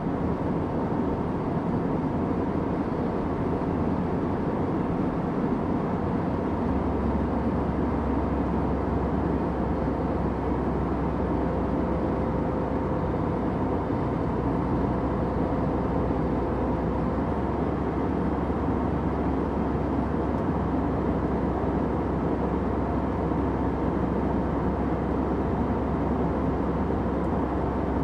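Steady airplane cabin noise in flight: an even rumble with hiss above it, and a faint higher hum that comes and goes in the middle.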